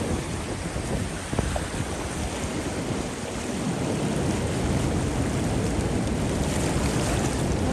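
Gusty blizzard wind blowing across the microphone, a steady rushing noise, with a small knock about a second and a half in.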